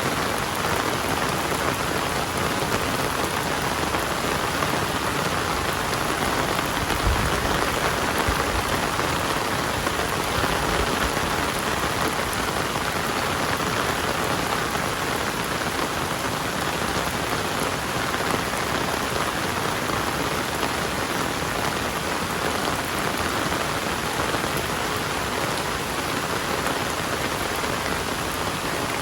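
Heavy rain falling in a steady, dense downpour, with a brief low rumble about a quarter of the way in.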